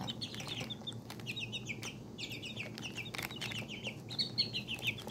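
Young chicks peeping: runs of short, high peeps, several a second, with scattered faint clicks.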